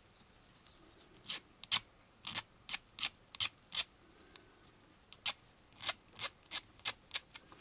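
Short abrasive strokes of hand sanding or filing along the edge of a small plastic model-kit part, smoothing off molding ridges. The strokes come about three a second in two runs, with a pause in the middle.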